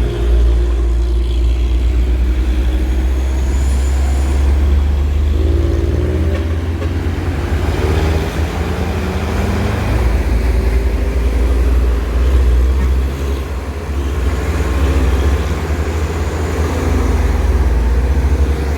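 Heavy truck's diesel engine running under load, a steady low drone whose pitch shifts up and down a few times.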